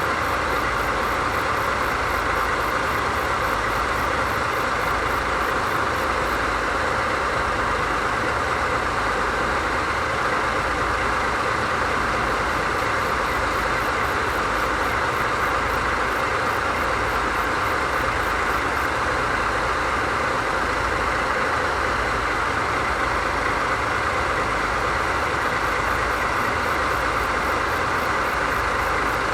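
DD51 diesel-hydraulic locomotive's twin V12 diesel engines idling steadily, with a low, pulsing rumble.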